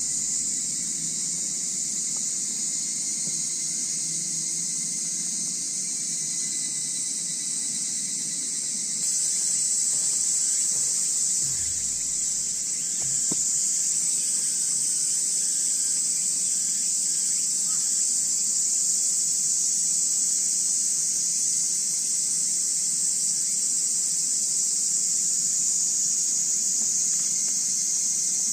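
Night insect chorus, a steady high-pitched trilling of crickets that gets a little louder about a third of the way in.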